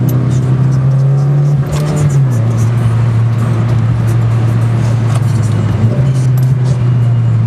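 Mitsubishi Lancer Evolution IX's turbocharged four-cylinder engine pulling steadily, heard from inside the cabin. Its note drops a little about two seconds in and steps up again about six seconds in.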